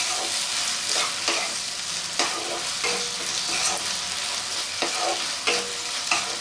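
Okra in poppy seed paste sizzling in a kadai while a wooden spatula stirs it. The spatula scrapes and taps the pan about once a second over the steady frying hiss.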